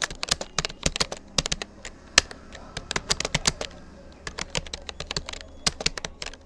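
Rapoo computer keyboard being typed on at a steady test pace, keys clicking in quick irregular runs, with a short pause about four seconds in.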